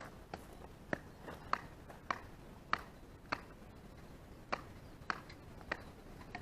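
A series of short, sharp clicks or snaps, about nine of them at an uneven pace of roughly one every half second, with a pause in the middle.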